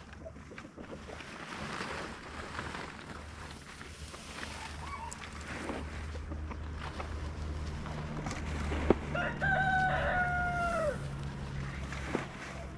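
A rooster crows once: one long call of about a second and a half that drops in pitch at the end. A sharp click comes just before the crow, over a steady low rumble.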